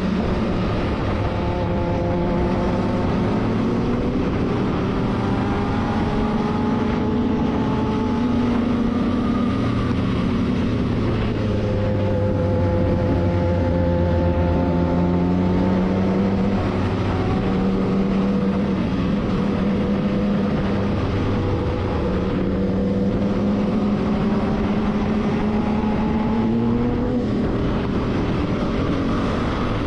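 Vehicle engine running on the move, its pitch slowly rising and falling as it speeds up and eases off, over steady road and wind noise.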